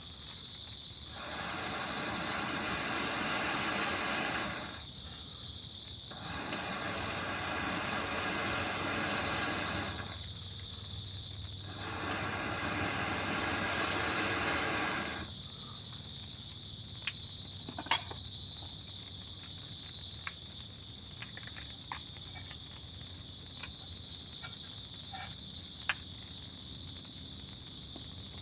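Insects, cricket-like, chirping in repeated pulsed trills of a second or two each. In the first half there are stretches of rushing noise a few seconds long, and in the second half a few sharp clicks.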